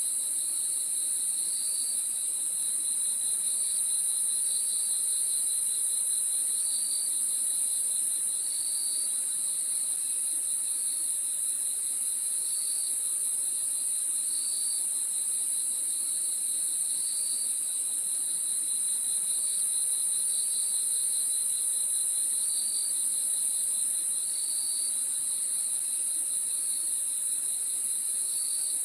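A chorus of crickets: a steady high-pitched trill throughout, with a lower chirp repeating about every one and a half to two seconds.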